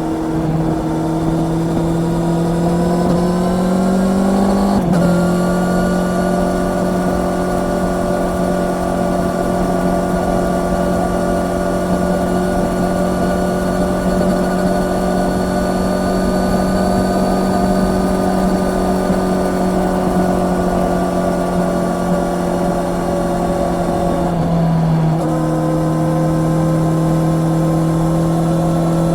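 Honda CB650R's inline-four engine heard from the bike while riding. The engine note rises for the first few seconds, breaks sharply about five seconds in, then holds steady at cruising revs. Near the end the pitch drops lower as the bike changes gear.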